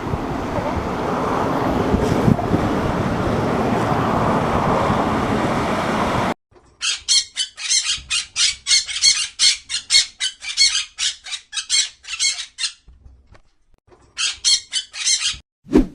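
Steady outdoor noise, then after a sudden cut a rapid run of sharp, high squawking calls, about three a second, which pauses and starts again near the end.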